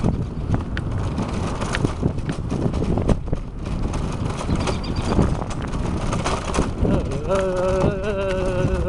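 A bicycle being ridden over rough pavement: a steady rumble of wind on the microphone and the tyres, with frequent rattles and knocks from bumps in the road. About seven seconds in, a wavering high-pitched tone joins and holds to the end.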